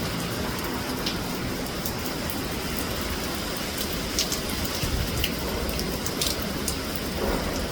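Heavy tropical rain falling steadily: an even hiss, with a few sharp ticks of drops striking close by.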